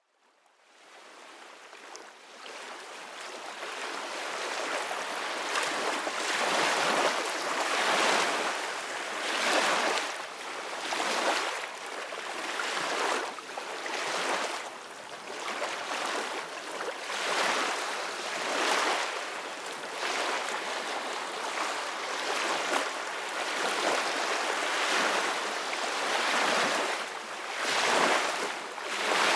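Ocean waves breaking and washing in: a rushing surf that swells and ebbs every couple of seconds. It fades in over the first few seconds.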